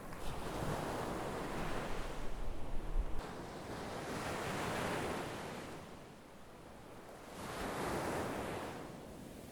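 Sea waves breaking and washing ashore in three swells of surf, each building and fading away.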